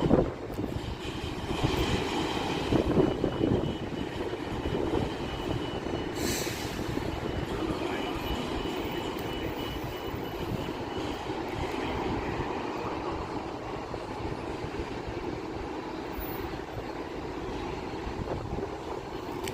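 Jet airliner engines running with a steady rumble and a thin high whine that fades out about halfway through.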